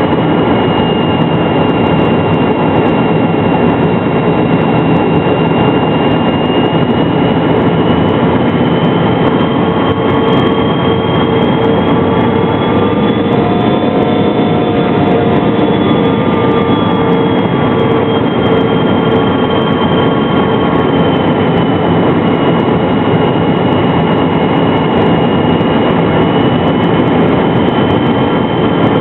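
McDonnell Douglas MD-83 airliner in flight, its rear-mounted JT8D turbofans and the airflow making a steady loud rumble, with a high engine whine that slowly rises and falls in pitch.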